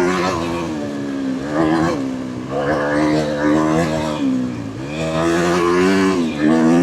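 Dirt bike engine revving on a trail ride, its pitch climbing and dropping back several times as the throttle is opened and closed.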